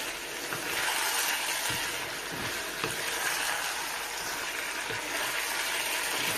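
Vegetable Manchurian balls in thick sauce sizzling steadily in a nonstick pan while being stirred with a wooden spatula, with a few soft knocks of the spatula against the pan.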